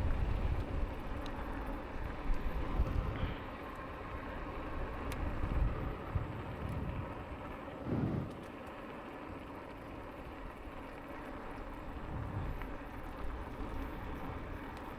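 Wind buffeting the microphone over the rumble of an e-bike's tyres on the path, in gusts near the start, then steadier and quieter. A short rising-and-falling sound comes through about eight seconds in.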